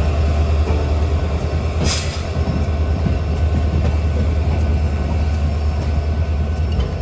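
Passenger train of LHB coaches running along the track: a steady, loud rumble of wheels on rail, with a single sharp click about two seconds in.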